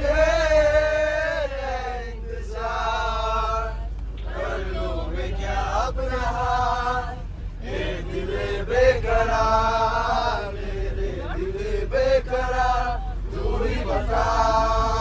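Voices singing a song in long, held melodic phrases with short breaks between them, over a low steady hum.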